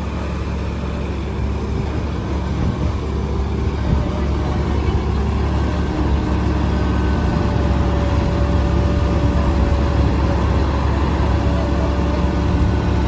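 Diesel tractor engines running hard under load as a John Deere 5075E in four-wheel drive and a Swaraj tractor pull against each other in a tug-of-war; a steady low drone that grows slightly louder.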